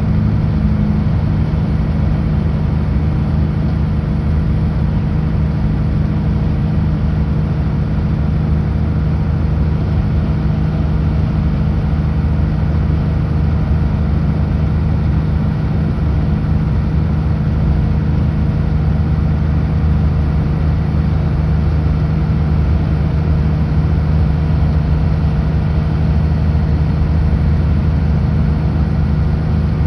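Kenworth W900L semi truck's diesel engine running at a steady, unchanging pitch while cruising on the highway, with road noise.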